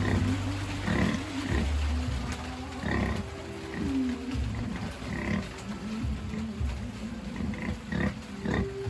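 Pigs grunting over and over, short calls coming every half second or so, some of them bending in pitch.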